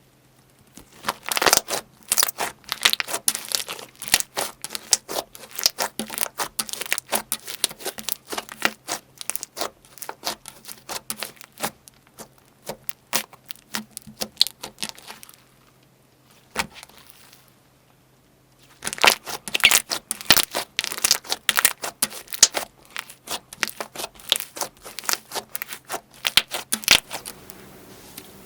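Slime being worked by hand, giving dense runs of sharp crackling pops and clicks. Partway through it pauses for a few seconds, with one lone click, then starts again.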